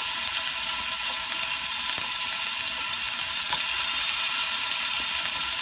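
Small minced-meat kebab balls sizzling in olive oil in a frying pan: a steady frying hiss.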